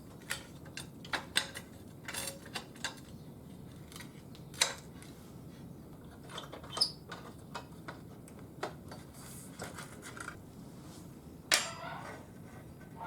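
Scattered light clicks and knocks, a dozen or so at irregular intervals, from materials being handled and fitted by hand. The two sharpest come a little over four seconds in and near the end.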